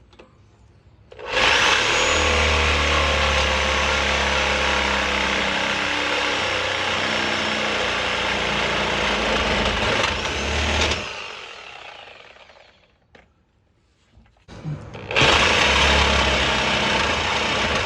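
Reciprocating saw (Sawzall) cutting through an exhaust pipe. It starts about a second in and cuts for about ten seconds, then stops and winds down. A couple of seconds later it starts cutting again.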